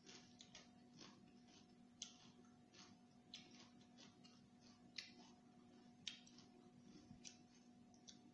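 Faint, irregular wet clicks of chewing and lip smacks while eating rice vermicelli by hand, the sharpest about 2, 5 and 6 seconds in, over a low steady hum.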